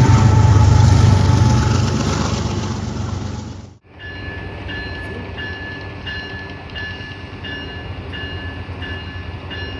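A train passing close by, its loud rumble fading away over the first few seconds. After a sudden cut, a railroad grade-crossing bell rings in even strokes, a bit under two a second, over quieter train noise.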